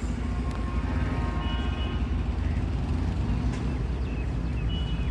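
Electric train running: a steady low rumble, with a thin high whine about one to two seconds in and again near the end.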